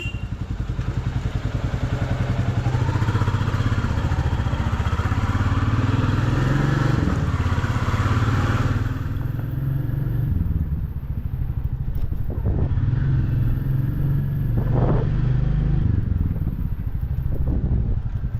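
Motorcycle engine running steadily while riding, with wind and road rush over it that fades sharply about halfway through.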